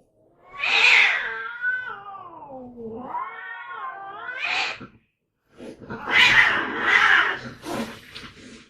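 Cats fighting: a harsh outburst, then one long wavering yowl that sinks and climbs again, and after a short pause a run of loud, harsh, noisy screeches.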